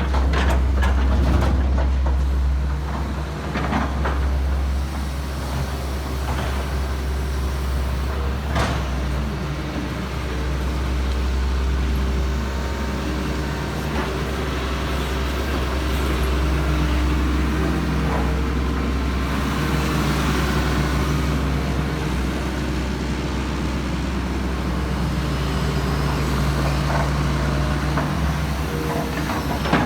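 Heavy diesel machinery running steadily with a deep low hum, with a few sharp knocks and clanks.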